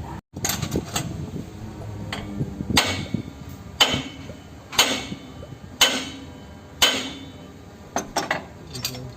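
A hammer striking metal: about five hard blows roughly a second apart, each ringing briefly, with a few lighter taps before and after.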